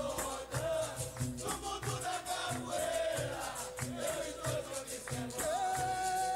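Recorded capoeira song: a chorus of voices sings the response over a steady beat of hand drums and a shaken rattle, with one long held sung note in the second half.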